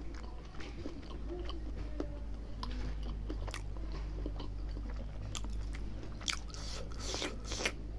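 Close-up mouth sounds of a man chewing mithun skin curry with rice: wet clicks and smacks at irregular intervals, over a steady low hum.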